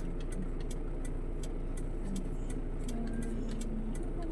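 Steady low rumble of a running vehicle engine, with a rapid light ticking, about four or five ticks a second.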